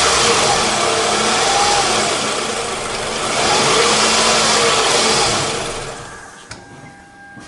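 Car engine running just after being started, its revs rising and falling a couple of times. The engine sound dies away about six seconds in, followed by a faint click and a thin steady tone.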